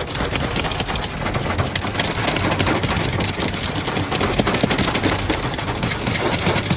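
Loud storm wind buffeting the microphone, a dense rumble with rapid crackling that cuts off suddenly at the end.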